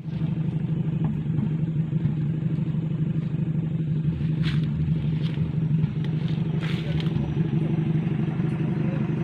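Off-road 4x4 engine running steadily close by, an even low drone with no revving.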